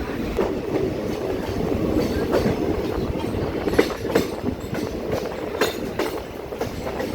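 Passenger train running on the line, its wheels clacking irregularly over the rail joints above a steady rumble of the carriage, heard from on board.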